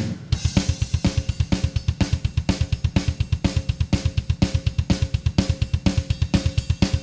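Music recording with a drum-only break: a drum kit plays fast, steady kick-drum beats with snare, hi-hat and cymbals, and no other instruments.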